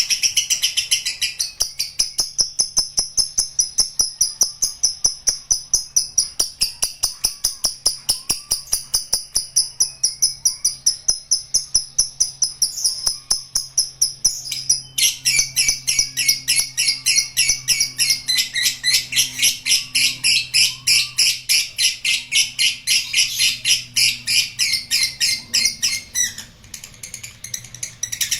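Lovebird singing a long ngekek: a rapid, even run of sharp, high chattering notes at about five a second. It breaks off briefly about halfway, then runs on until it stops a couple of seconds before the end.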